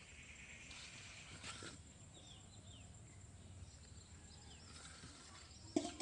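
Faint, short falling bird chirps repeating in the background, with a single sharp knock near the end.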